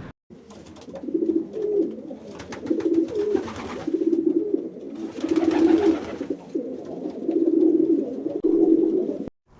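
Pigeon cooing: a string of low, warbling coos repeated over and over with short pauses between them.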